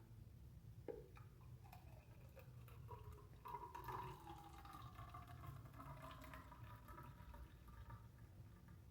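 Blended passion fruit juice being poured through the portable blender's built-in strainer, trickling faintly into a cup, with a light knock about a second in.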